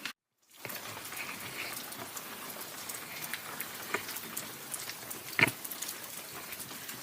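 Steady rain falling, with scattered sharper drop ticks; it starts after a brief dropout at the very beginning.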